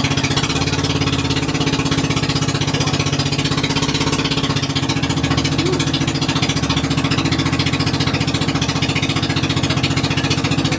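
Small engine running steadily at close range, with a rapid, even pulsing.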